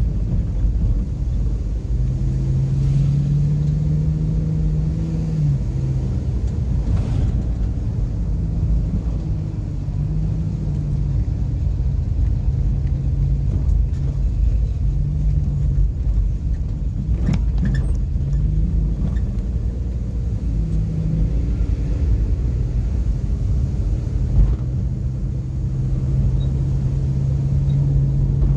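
Car driving along a road: steady low engine and road rumble, the engine hum shifting in pitch as the car speeds up and slows, with a sharp knock about 17 seconds in.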